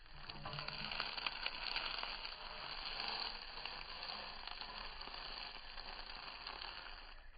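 Masala-coated raw plantain slices frying in hot oil in a pan, sizzling with scattered crackles. The sizzle starts suddenly as the tossed slices land back in the pan, is loudest in the first few seconds, then eases.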